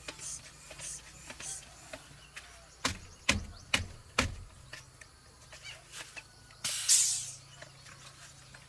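Repair-work handling noises: four sharp knocks or clinks, as of metal parts or tools, over about a second and a half in the middle, with lighter ticks around them. A short hissing or scraping burst follows about seven seconds in.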